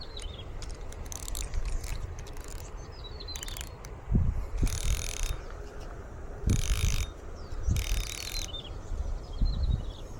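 Fishing reel cranked in three short spells of mechanical whirring and clicking, about half a second each, with low thumps between them. A bird chirps briefly a few times.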